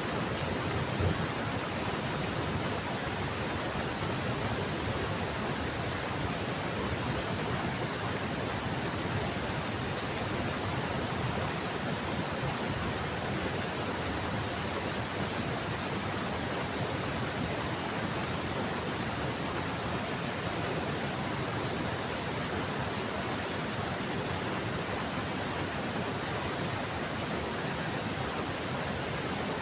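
Heavy rain falling steadily, an even hiss with no let-up. One brief low thump about a second in.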